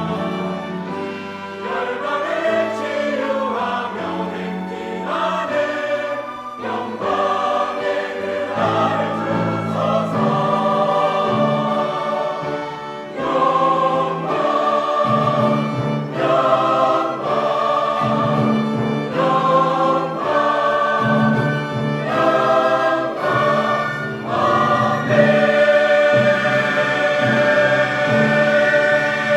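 Church choir singing a hymn anthem with accompaniment, the phrases rising and falling, then settling into a long held chord near the end.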